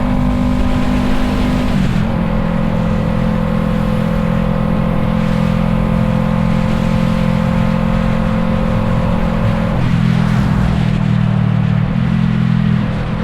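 Yamaha MT-03's 321 cc parallel-twin engine running through an aftermarket Arashi exhaust while riding at a steady pace. The engine note holds steady, then shifts pitch a few times, about two seconds in, near ten seconds and again around twelve seconds.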